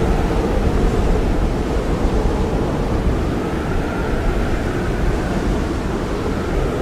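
Blizzard wind blowing hard and steadily, with a heavy low rumble and a faint high whistle that swells and fades in the middle and again near the end.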